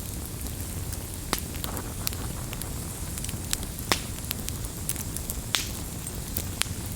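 Wood campfire burning with a steady low rumble, broken by irregular sharp crackles and pops, the loudest about four seconds in.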